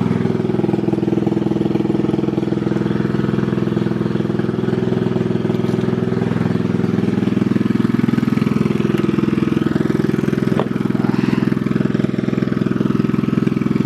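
Small riding lawn mower engine running steadily, its pitch wavering slightly partway through, with a single sharp click about ten seconds in.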